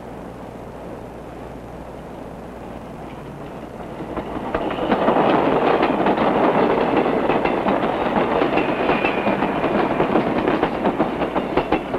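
Commuter train passing close by: a faint steady rumble that swells to a loud rush about four to five seconds in, with rapid clickety-clack of the wheels over rail joints, the clicks spacing out near the end.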